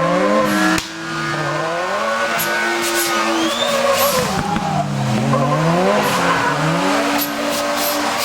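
Drift car's engine revving hard and dropping back about every two seconds as it slides uphill, with a brief dip in loudness about a second in and tyres squealing through the slides.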